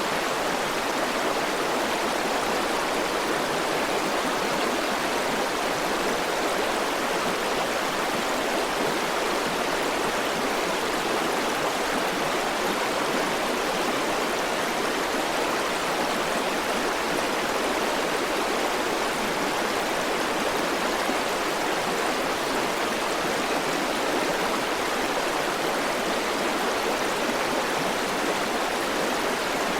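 River water flowing: a steady, unbroken rush of water with no pauses or separate splashes.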